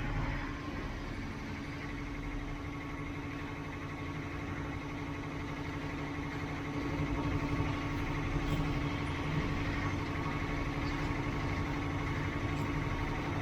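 An engine idling steadily: a continuous low rumble with a held hum over it, a little louder after about seven seconds.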